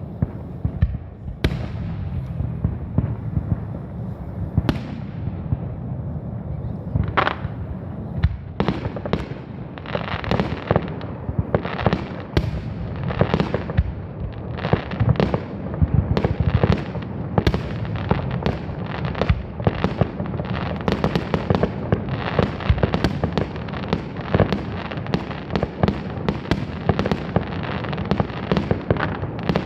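Aerial fireworks shells bursting in a display: a few scattered bangs, then from about eight seconds in a rapid barrage of bangs, several a second.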